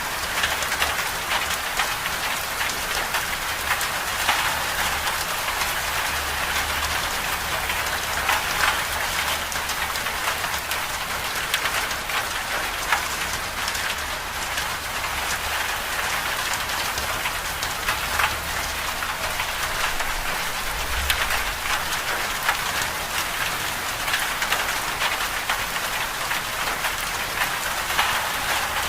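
Winter-storm ambience: a dense, steady patter of precipitation hitting a surface, with a low rumble underneath.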